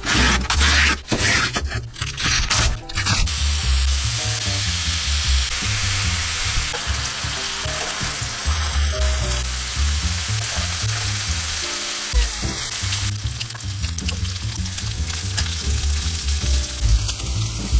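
Pork belly stir-fry sizzling in a hot pan as it is stirred, with a few sharp knocks of the utensil against the pan in the first few seconds.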